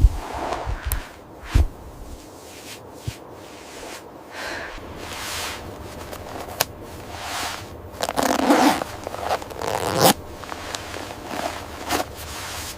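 A zipper being pulled and clothing rustling: a run of short scrapes and rustles, busiest about eight to ten seconds in.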